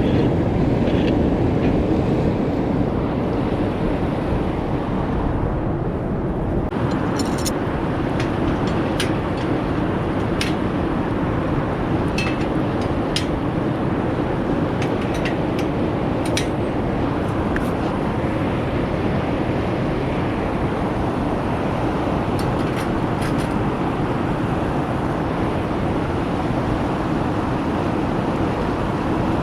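Wood fire burning steadily with a low rushing sound and scattered sharp crackles and pops.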